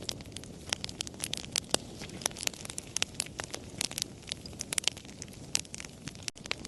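Campfire crackling: many irregular sharp pops and snaps, a few of them loud, over a steady low rumble of burning.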